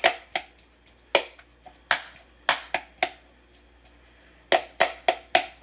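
A utensil tapping sharply against a bowl in irregular clicks as canned chicken breast chunks are broken up small, with a pause of a second or so in the middle and a quick run of taps near the end.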